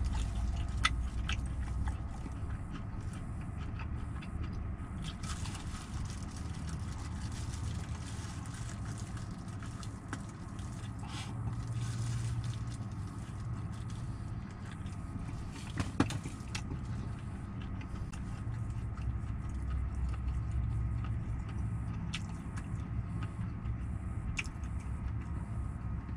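Someone chewing and biting into fried chicken close to the microphone, with a few sharp clicks, over a steady low rumble in the truck cab.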